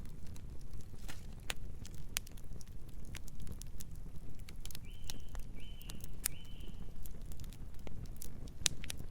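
Campfire crackling: irregular sharp pops and snaps over a steady low rumble of burning wood. Three short high-pitched calls sound in a row about halfway through.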